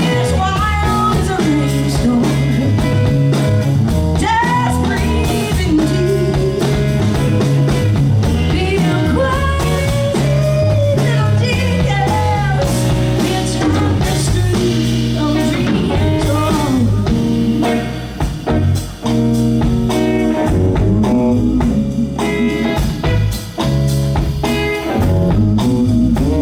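Live blues band playing: electric guitar, bass and drums under a lead line of bending, sliding notes, with a couple of brief breaks in the band's sound in the last third.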